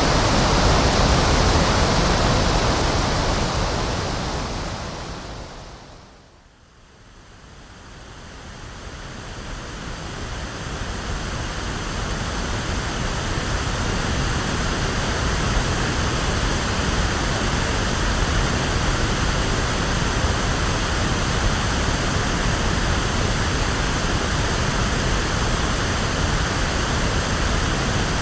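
Electronically generated pink noise, a steady full-range hiss like surf or a waterfall. About six seconds in it fades almost away, then swells back up over the next several seconds and holds steady.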